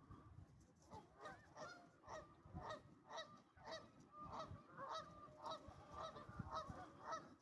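Flock of waterfowl on a lake calling continuously, many short overlapping calls at about two or three a second, heard faintly.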